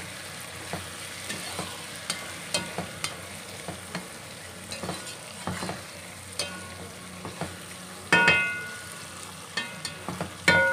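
Diced potatoes, tomatoes and onion frying in oil with freshly added spice powders in a granite-coated pot, sizzling while a spatula stirs and scrapes them. Twice, about eight seconds in and near the end, a sharp knock with a short ringing tone, the loudest sounds.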